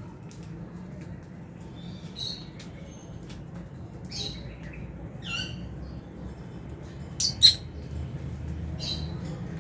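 Lovebirds in an aviary giving short, scattered chirps and squawks, the loudest a quick double call near the end.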